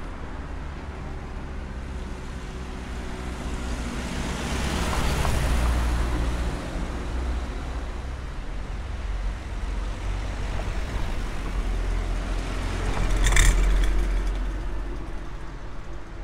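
Street traffic: motor vehicles driving past, one swelling by about five seconds in and a louder one around thirteen seconds, with a brief sharp noise at its peak.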